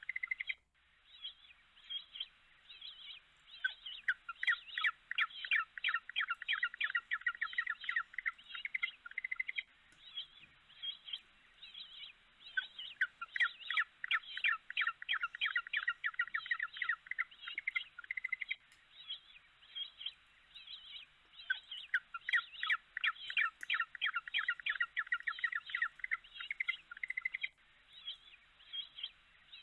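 Rapid, high-pitched bird chirping and twittering, many short calls in quick succession, swelling into dense runs several seconds long with sparser chirps between them.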